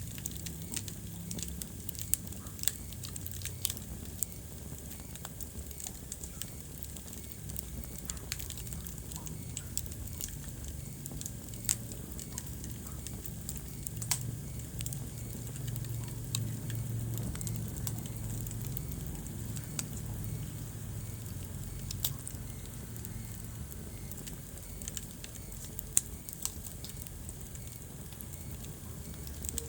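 Wood fire burning in a fireplace: a low steady rumble of flames with irregular crackles and sharp pops of burning logs.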